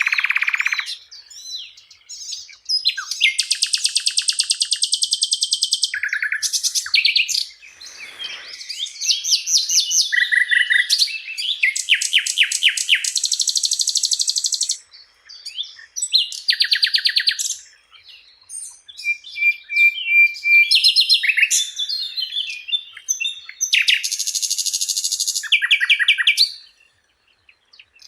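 Sikatan londo flycatcher singing a varied, high-pitched song: rapid trills and chattering runs broken by short pauses, each phrase a few seconds long.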